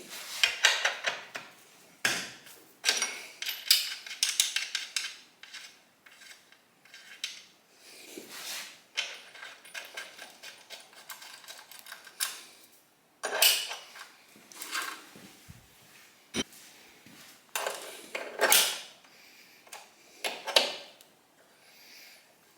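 Metal exhaust parts and hand tools clinking and scraping in irregular bursts as a motorcycle exhaust megaphone and its mounting nut are fitted.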